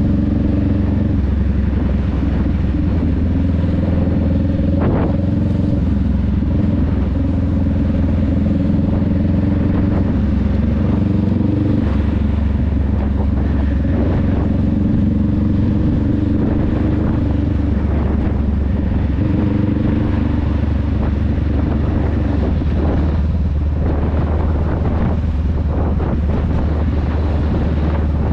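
Honda Rebel 500's parallel-twin engine and exhaust running while riding, holding a fairly steady engine speed with its pitch shifting a few times. A few short knocks sound through it.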